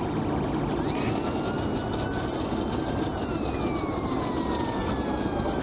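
Police siren wailing: its pitch rises about a second in, holds, then slowly falls. Steady engine and road noise runs underneath.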